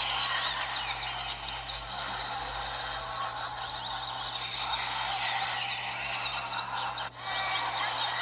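Many double-collared seedeaters (coleiros) singing at once, as in a tournament singing circle: a dense, overlapping chorus of quick, rising and falling whistled phrases. The sound drops out briefly about seven seconds in, then resumes.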